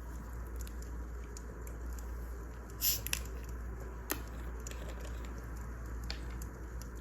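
Wood fire crackling over a steady low rumble, with scattered small snaps and a couple of louder pops just before the middle and a sharp crack soon after.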